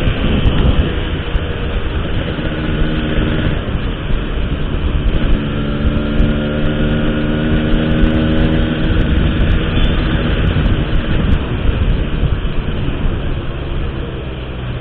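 A 135cc motorcycle with an Altech C17 aftermarket exhaust cruising at a steady speed. Its engine note is heard under heavy wind rumble on the microphone, with a steadier humming tone for several seconds in the middle.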